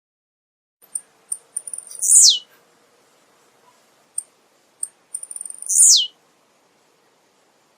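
Male blue-black grassquit (tiziu) singing: two short, buzzy, high songs that slide steeply down in pitch, about two seconds in and near six seconds, each led by a few thin, high chips.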